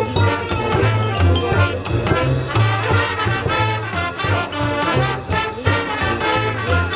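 High school marching band playing: brass (trumpets, trombones) with a marching bass line of repeated low notes and drum strokes.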